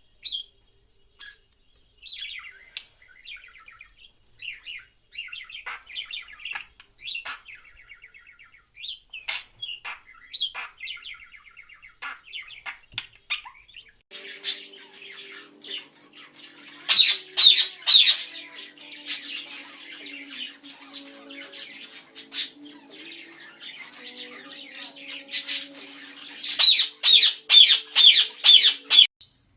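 Pet birds chirping and twittering in short, high calls. About halfway through, loud harsh squawks begin, coming in quick runs of several calls, twice.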